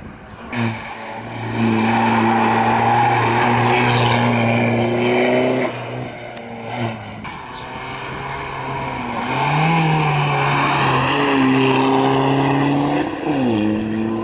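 Rally car engine at high revs, loud and close, holding a steady pitch; it lifts off about six seconds in, pulls again, and the pitch falls away near the end as it lifts or shifts down.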